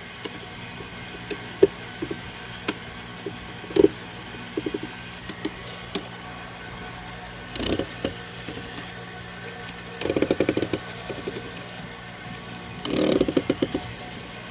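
Tool and handling noises from taking apart a soundbar: scattered sharp clicks, with two short bursts of rapid rattling ticks about ten and thirteen seconds in, over a steady low hum.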